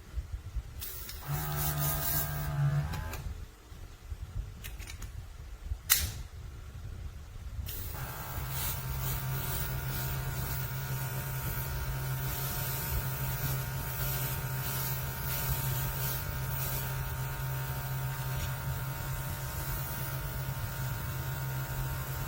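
Small airbrush compressor running briefly and stopping, a sharp click, then the compressor starting again and running steadily with a hiss of air.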